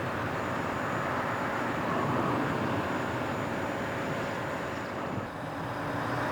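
Steady rumbling vehicle noise with a faint thin high whine. About five seconds in the whine stops and the sound dips briefly, then changes.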